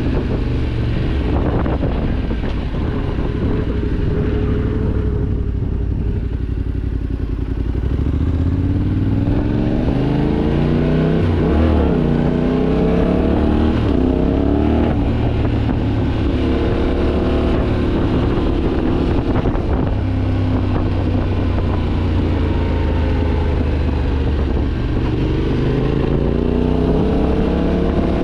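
Yamaha Ténéré 700's parallel-twin engine under hard acceleration on the road, its pitch climbing and dropping back several times as it revs up and changes gear. The engine is being pushed hard to test it after earlier engine damage.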